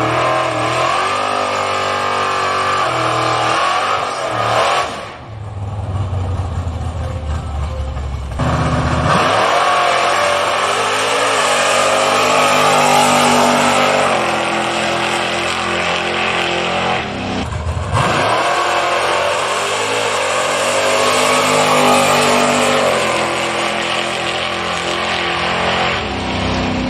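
Engine of a built drag-racing Chevy S10 pickup revving and accelerating hard, its pitch climbing again and again. It settles to a lower, steadier note about five seconds in, then climbs again, with a brief sudden drop in pitch near eighteen seconds.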